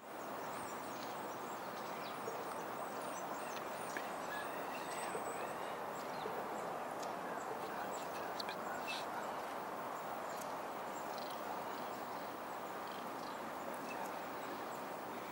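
Birds chirping and calling in many short, separate notes, some quick sliding whistles among them, over a steady rushing background noise.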